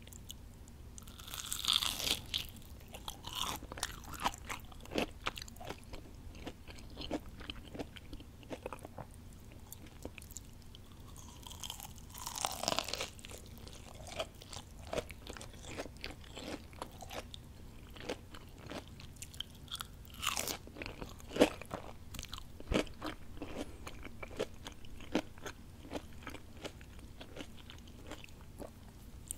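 Close-miked eating of crispy fried onion rings: loud crunching bites about 2, 13 and 20 seconds in, with crackly chewing in between.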